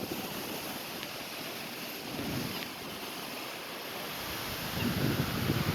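Waterfall rushing steadily, with a louder low rumble building near the end.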